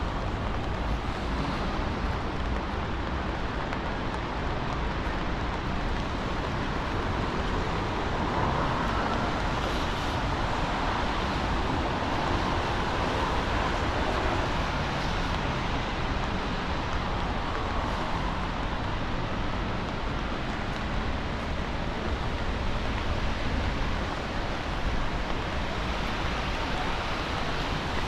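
Steady hiss of a wet city street in the rain, with traffic and tyres on wet pavement. The hiss swells a little in the middle.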